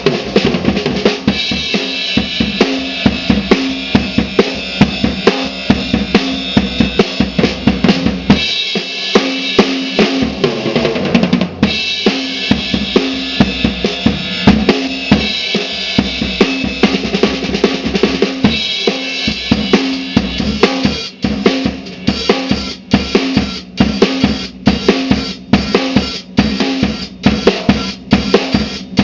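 Slingerland Sound Stage drum kit being played in a continuous groove of kick, snare and cymbals. The cymbals drop out for a few seconds about nine seconds in. In the last third the playing turns into more separate, spaced strokes.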